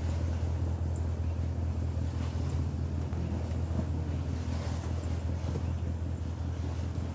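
A boat's engine running steadily with a constant low drone, with wind buffeting the microphone and a wash of water noise over it.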